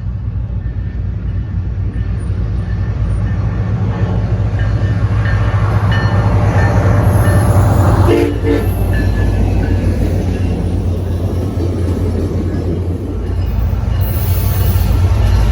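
A diesel passenger train running, its low engine rumble growing louder. There is a short tonal sound about eight seconds in and a brief high squeal near the end.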